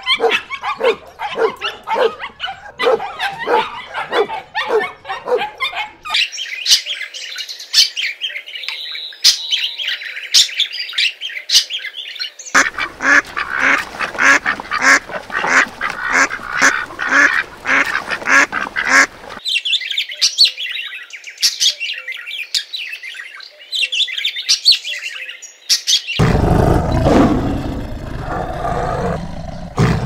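Flock of domestic ducks quacking in loud, rapid, overlapping calls through the middle stretch, with high-pitched chirping calls before and after. Near the end a loud, low-pitched sound takes over.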